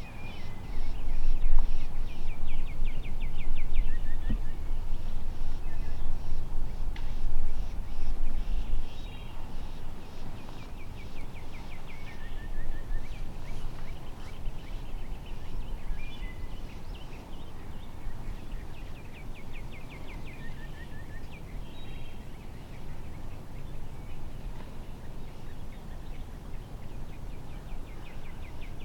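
Wild turkey gobbler gobbling again and again: a rapid, rattling call that falls in pitch, repeated about every eight seconds. Under it a low rumble on the microphone, loudest in the first several seconds.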